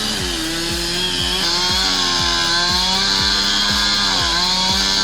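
Chainsaw engine running at high speed under load, its pitch sagging and recovering as it cuts, with one clear dip about four seconds in.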